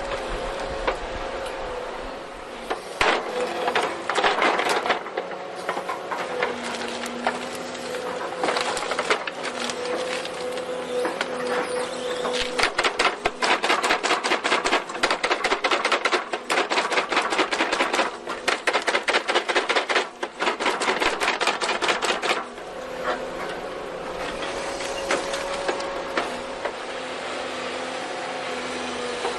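Forestry machinery working wood: a steady mechanical whine, with a fast rattling clatter from about 13 to 22 seconds in.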